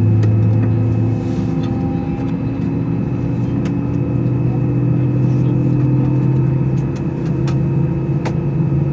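Airbus A320-214's CFM56 jet engines heard from inside the cabin: a steady hum whose tones rise slowly in pitch, as thrust builds. A few faint clicks sound over it.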